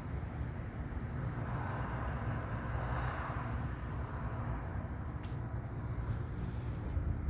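Crickets chirping steadily in a fast, even pulse, over a low steady rumble.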